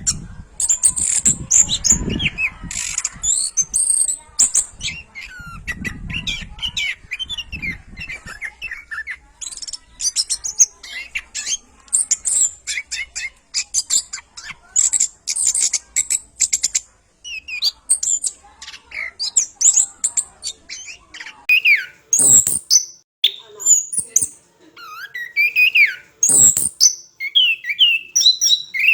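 Orange-headed thrush singing a fast, unbroken run of varied whistles, chirps and high trills. A low rumble twice in the first eight seconds, and two sharp clicks later on.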